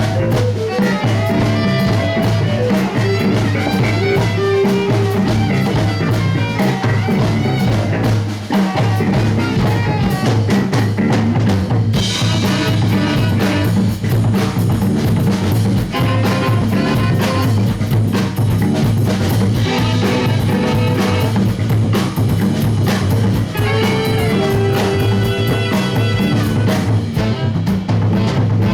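Live band playing an instrumental passage, the drum kit keeping a steady beat under held instrument notes.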